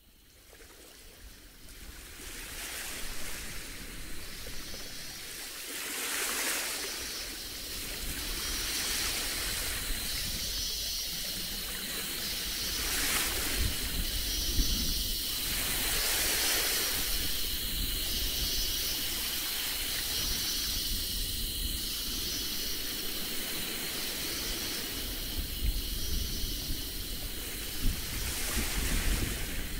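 Rushing, surf-like noise that swells and ebbs every few seconds, with a faint high pulsing about every two seconds.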